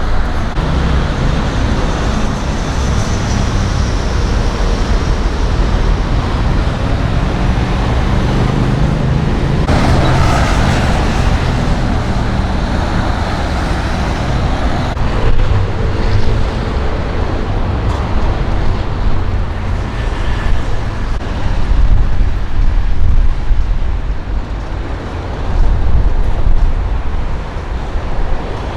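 Street traffic: vehicles running and passing in a steady rumble, growing louder for a few seconds at a time late on.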